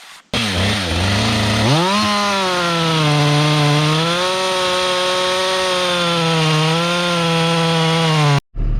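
Chainsaw running at high revs, the pitch dipping and then climbing in the first two seconds and holding with a slight waver. It starts and cuts off abruptly.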